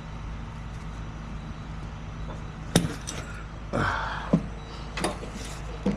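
A vehicle engine idles with a steady low hum. Over it come a few sharp metal clinks and knocks, about three seconds in and again near five seconds, with a short clattering rattle in between.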